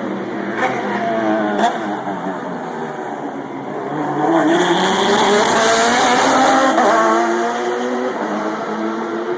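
ALMS race car engines at high revs: two sharp exhaust cracks in the first two seconds, then engines accelerating hard, pitch climbing, loudest past the middle before easing off.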